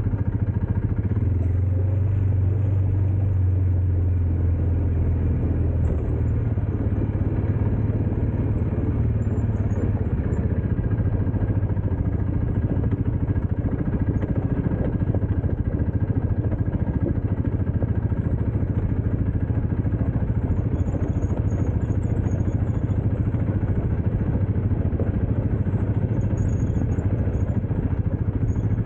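Dirt bike engine running at a steady low pitch under a continuous rough noise, its note strongest in the first few seconds.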